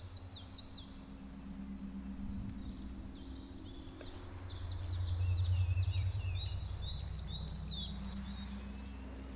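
Songbirds chirping and twittering in quick short calls, busiest through the middle, over a low steady hum that swells a little about halfway through.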